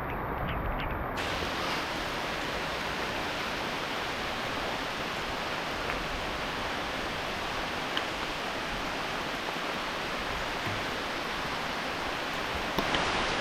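Heavy rain pouring down in woodland: a steady, dense hiss of water, with a few sharp drop-like ticks near the microphone.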